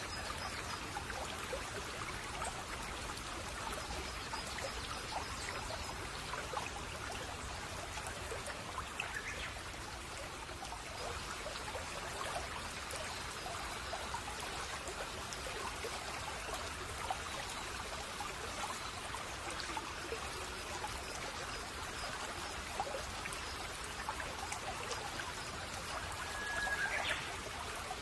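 A shallow brook babbling and trickling steadily over stones, with a short bird call near the end.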